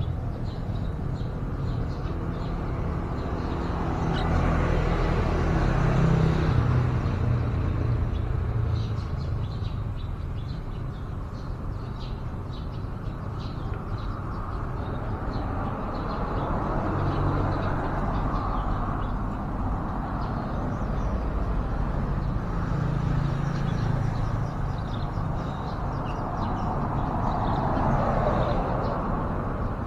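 Road traffic rumbling steadily, swelling as vehicles pass several times, with short high bird chirps scattered through it.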